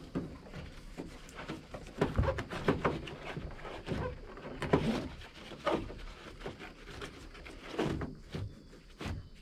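Irregular knocks, clicks and rustles of a canoe tie-down strap and its buckle being worked on the roof rack, with a few sharper knocks about two and five seconds in.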